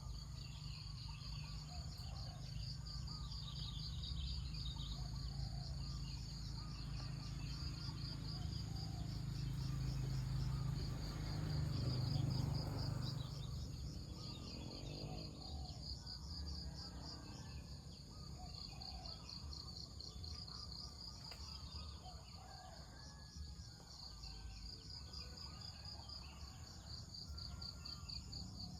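Countryside ambience: a steady, fast-pulsing insect chorus with scattered bird calls. A low rumble swells and fades about ten to fourteen seconds in.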